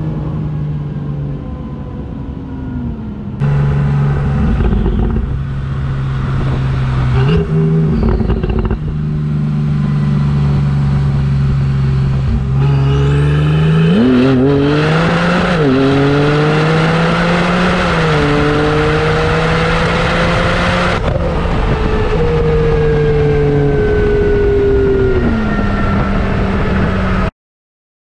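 Porsche 911 Turbo S (991.1) twin-turbo flat-six heard from inside the cabin, running on after a 60–130 mph pull. Its pitch steps and rises a few times around the middle before settling, and the sound cuts off suddenly near the end.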